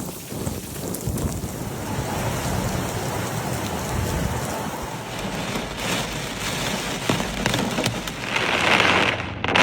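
Heavy rain pouring down in a steady hiss, with some low rumbling early on. The rain grows louder and brighter about eight seconds in, then briefly drops out just before the end.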